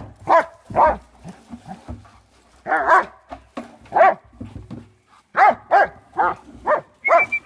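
Dogs barking, about ten short barks in uneven bursts.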